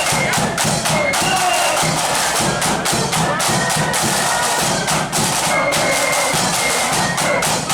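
Marching flute band playing a tune: high flutes over snare and bass drums.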